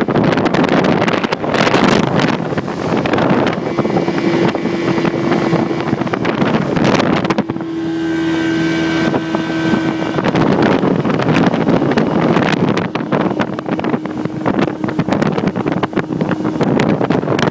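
Small speedboat's 85 hp outboard motor running under way, its steady engine hum showing through in stretches, under heavy wind buffeting on the microphone.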